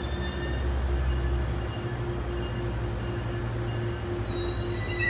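Metrolink commuter train on the far track, a steady low rumble. Thin, high metallic wheel squeal starts near the end.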